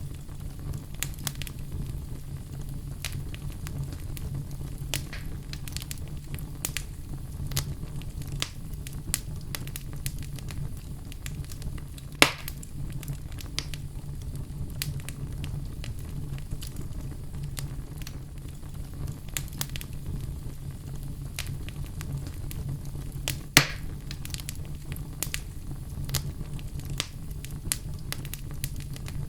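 Wood fire crackling in a fireplace: a steady low rumble of flame with frequent small crackles and snaps, and two louder pops, one near the middle and one about three-quarters through.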